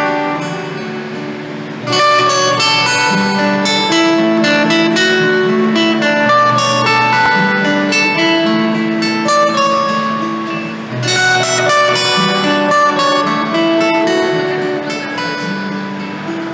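Acoustic guitar playing an instrumental break between sung verses: a run of picked notes over bass notes, briefly easing off about two-thirds of the way through before picking up again.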